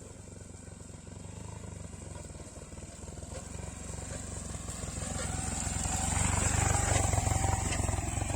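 Motorcycle engine running, getting steadily louder through the middle and loudest a little before the end.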